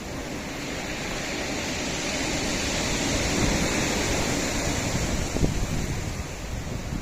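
Sea waves washing against a rocky shore. A steady rush swells over the first few seconds and then eases off.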